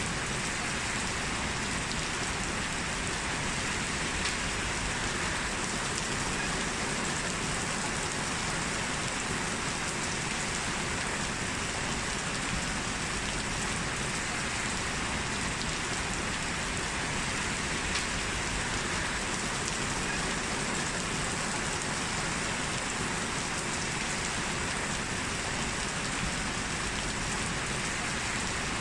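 Heavy rain falling steadily, an even hiss of downpour with scattered individual drop ticks.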